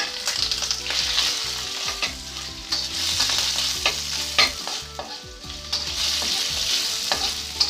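Raw peeled shrimp sizzling in hot oil in a wok, with a spatula scraping and clicking against the pan several times as they are stirred.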